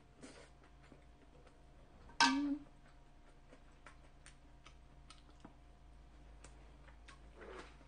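Close-miked eating: chewing with many small, irregular wet mouth clicks. About two seconds in comes one brief, much louder sound.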